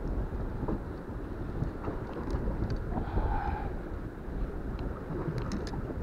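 Wind buffeting the microphone, a steady low rumble, with a few faint sharp ticks near the end.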